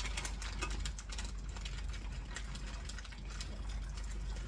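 Pot of chicken corn soup simmering: faint, irregular small pops and ticks over a steady low hum.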